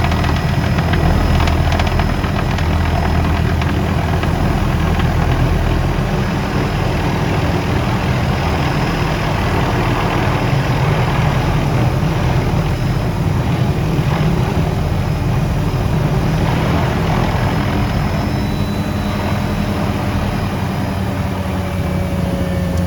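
Helicopter in flight heard from on board: the steady, unbroken drone of the engine and rotor, heaviest in the low range.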